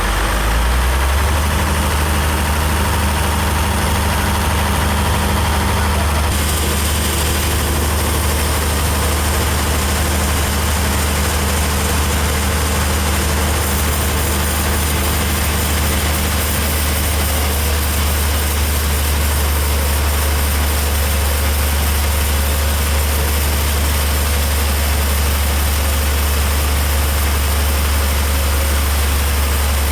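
Engine running steadily at idle, a deep even hum that fills out about a second in and then holds unchanged.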